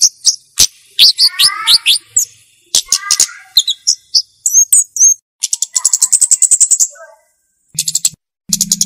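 Flowerpecker (kemade, cabe-cabean) calling: high, sharp chips and short, fast trills of ticking notes, in quick phrases with brief gaps between them.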